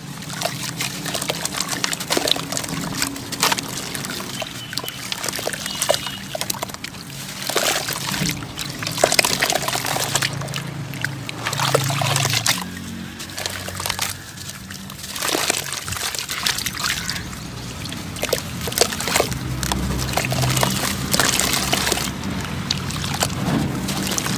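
Sandy clumps crumbling, a dense, continuous crackle of many small crunches with trickling grains.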